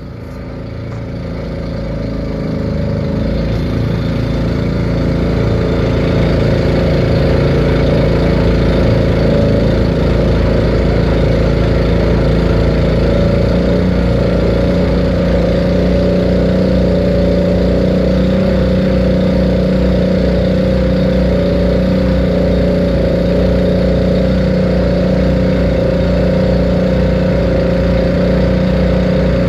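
Boat engine running. It builds up over the first few seconds, then holds a steady drone.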